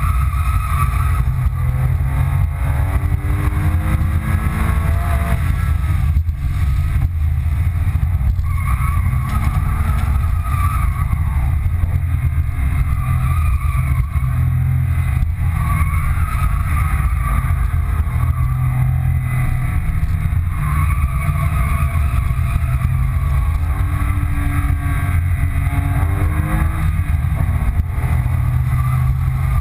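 Interior sound of a 2005 Porsche 997 Carrera 2's 3.6-litre flat-six at track pace. The engine pitch climbs under acceleration several times and drops back, over a steady low rumble of road noise.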